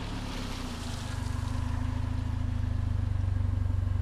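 Car engine running with a low, steady, pulsing hum that swells slightly after about a second. A hiss over the first second or so fades away.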